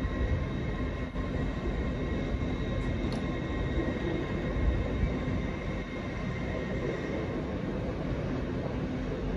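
LNER Azuma train moving slowly along the platforms, a low rumble with a steady whine that fades out about seven seconds in.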